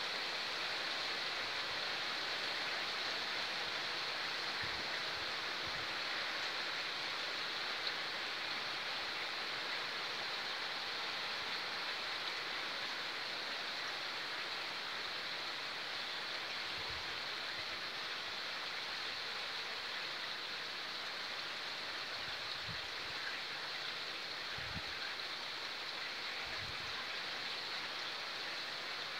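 Heavy rain pouring steadily, an even hiss of downpour, with a few faint low thumps now and then.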